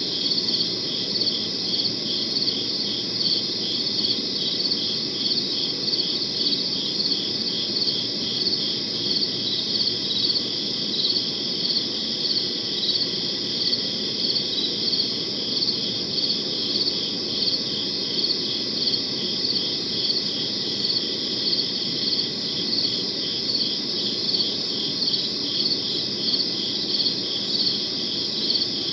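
Crickets chirping in a steady, even rhythm of high pulses, over a faint low background hiss.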